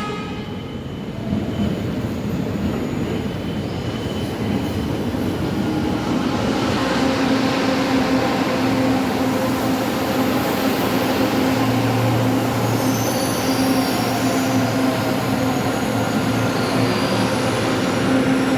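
An LRT Line 2 electric train running, with a steady motor hum over rail and wheel noise that grows louder about halfway through. Thin high tones join in over the last few seconds.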